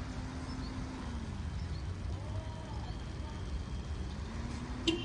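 Steady low rumble of motor vehicle engines, with a faint engine hum that fades out about a second in and comes back near the end. A short sharp click just before the end.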